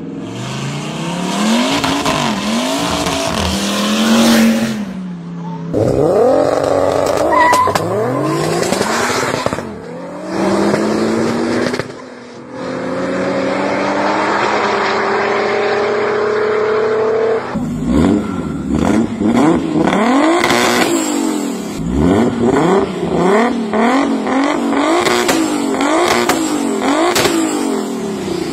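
Twin-turbo V10 engine from an Audi RS6, swapped into a VW Golf 4, pulling hard with its note climbing through the gears and dropping at each shift. Later it is revved in many quick blips, the pitch rising and falling again and again.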